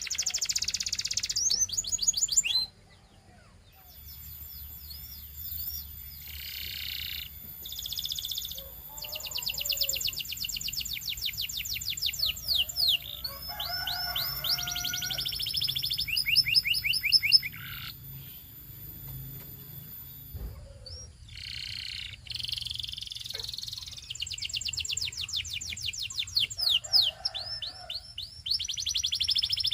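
Canary singing in long, fast trills of rapidly repeated gliding notes, broken by short pauses. The song drops out briefly about three seconds in.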